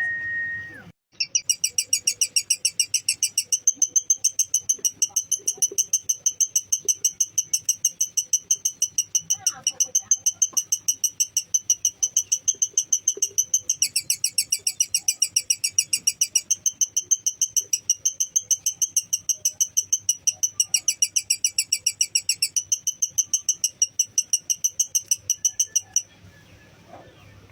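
Lovebird giving its long 'ngekek' chatter: a rapid, even train of sharp high chirps kept up without a break for about 25 seconds, starting about a second in and stopping shortly before the end. A brief steady whistle-like note sounds at the very start.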